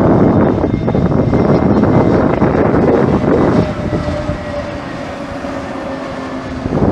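Jet airliner engines on landing, heard through heavy wind buffeting on the microphone. About three and a half seconds in, the rough noise drops back, leaving a quieter steady engine whine that sinks slightly in pitch.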